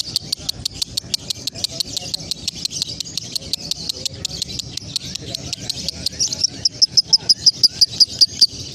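Female lovebird calling in a fast, even run of sharp, high chirps, about seven a second, growing louder about six seconds in. This is the rapid 'konslet' chatter that the young hen is still learning.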